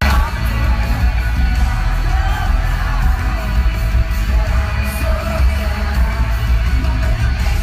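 A live pop-rock band plays loudly through a concert sound system, with heavy bass, singing and yells over the music.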